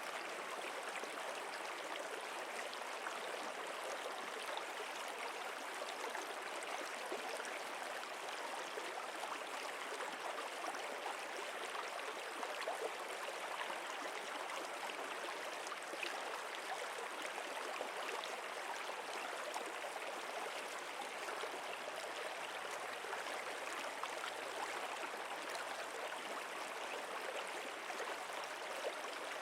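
Running stream water: an even, unbroken rushing and babbling.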